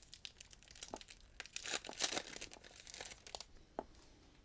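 Foil trading-card pack wrapper crinkling and tearing as it is handled and opened: irregular crackles, busiest around two seconds in, then dying down.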